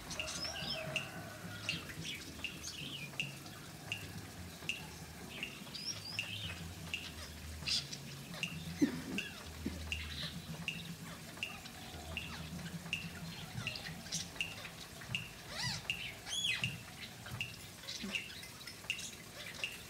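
Birds chirping: one short high chirp repeats steadily about one and a half times a second, with other chirps and gliding calls mixed in, busiest near the end. A low hum runs underneath.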